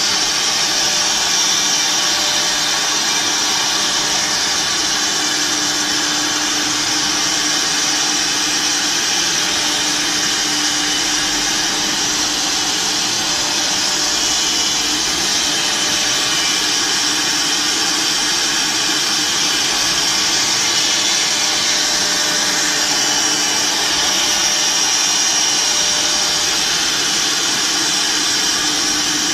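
Multi-head CNC router running steadily, its spindles giving a continuous high whine over a dense machining noise that holds an even level throughout.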